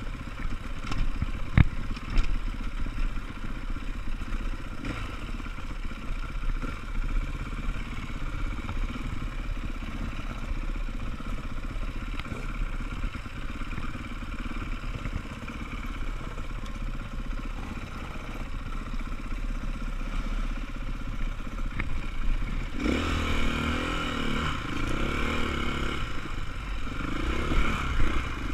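Off-road motorcycle engine running, with one sharp knock a couple of seconds in. Near the end it grows louder, its pitch rising and falling as the throttle is worked.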